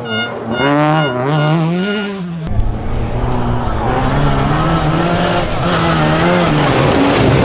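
Rally car engines at full throttle on a gravel stage: one revs up and down through quick gear changes. About two and a half seconds in, the sound switches to another engine held at high revs over a steady hiss of tyres on loose gravel.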